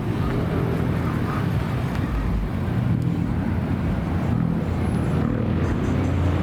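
Car engine running steadily at low revs, a deep even note with small shifts in pitch.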